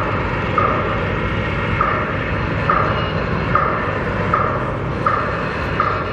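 Construction machine's reversing alarm beeping as a single repeated tone, a little more than once a second, over a steady low rumble.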